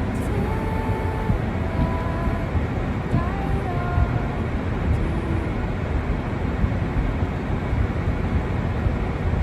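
Steady low outdoor rumble of wind and distant traffic in a snowstorm, with a few short, faint held tones in the first few seconds.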